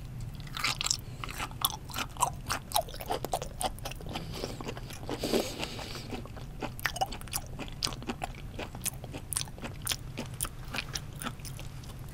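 Close-miked chewing of raw tuna cheek meat: a rapid run of small mouth clicks and smacks, thinning out in the second half.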